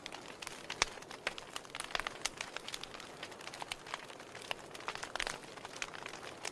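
Wood fire burning in a fireplace: firewood crackling with irregular sharp pops, several a second, over a soft hiss.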